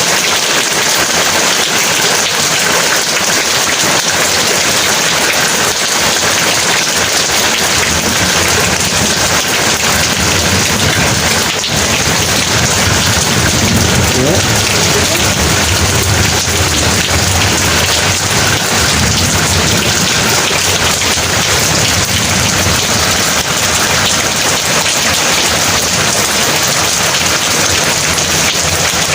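Heavy rain falling steadily. A low rumble of thunder rises under it from about eight seconds in and fades about ten seconds later.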